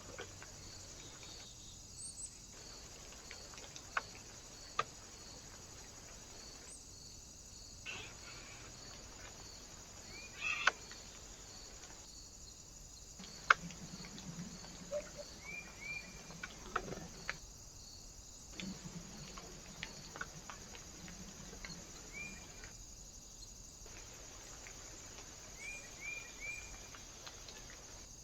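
Small birds at a feeder: scattered sharp taps and clicks with a few short high chirps in quick twos and threes, over the trail camera's steady hiss and a faint even ticking about twice a second.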